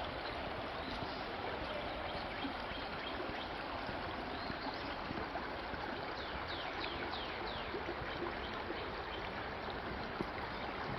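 Steady rush of a flowing stream. About six seconds in there is a short run of quick falling chirps.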